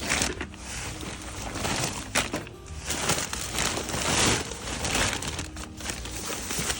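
Rustling and crinkling of bags and loose items being handled and rummaged through, in repeated uneven bursts.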